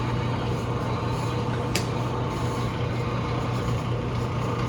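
Steady machine hum with a low drone, and a single brief click a little under two seconds in.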